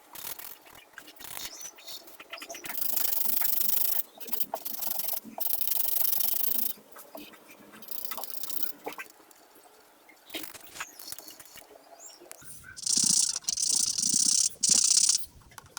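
A coloring tool rubbing back and forth on paper in scratchy strokes, in several spells of a second or two, the loudest near the end, with small clicks and taps between.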